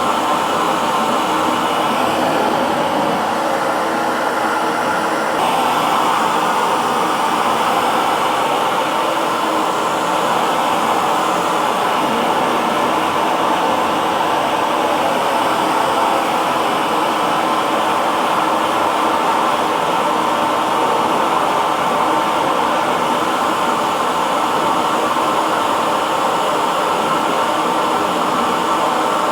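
Electric hair dryer running steadily: a continuous whooshing blow of air with a faint motor hum.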